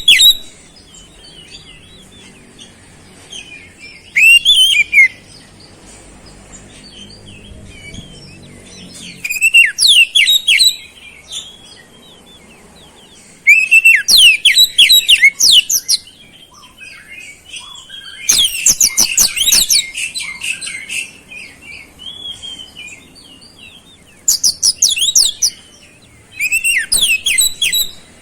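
Oriental magpie-robin singing in repeated bursts of rapid, high chirping phrases a second or two long, separated by pauses; the song carries mimicked flowerpecker calls.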